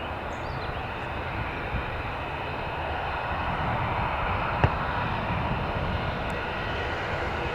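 Airliner engines running, a steady rush that swells a little through the middle and eases off, with one brief click about halfway.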